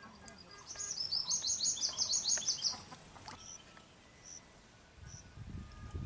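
A bird singing: a fast run of high, quick chirps lasting about two seconds, followed by single high notes about once a second. A low rumble builds near the end.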